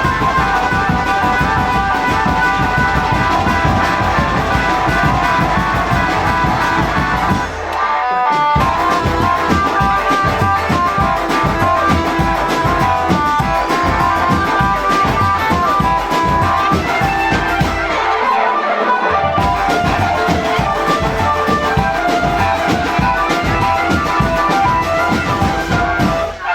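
Drum band playing: dense, rapid marching drums under a sustained melody line. The drums drop out briefly about eight seconds in and again near nineteen seconds.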